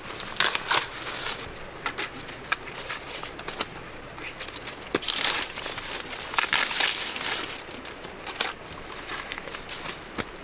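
Irregular rustling and crackling, broken by scattered sharp snaps and clicks.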